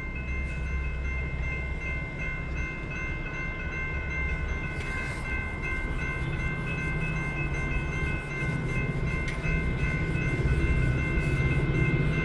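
A Metra commuter train approaches with a low rumble that grows toward the end, while the grade-crossing warning bells ring steadily.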